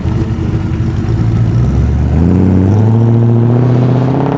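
Hot rod's engine running loud and uneven at low revs, then the revs climb steadily from about halfway through as it accelerates away.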